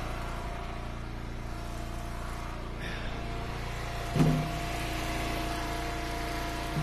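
Wood splitter's engine running steadily, with a knock about four seconds in and another near the end. A thin higher tone joins after the first knock.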